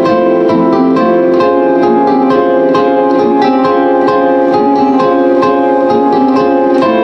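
Live instrumental music: a plucked string instrument playing a steady, even stream of ringing notes, about four a second, over a sustained, layered drone.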